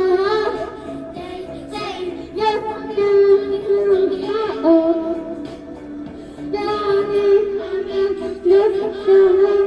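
Children singing a song, held notes in short phrases that stop and start again.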